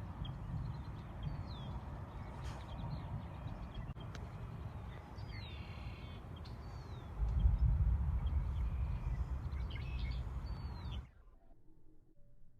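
Small birds chirping with short, falling calls over a steady low outdoor rumble. The rumble gets suddenly louder about seven seconds in, then everything cuts off abruptly near the end.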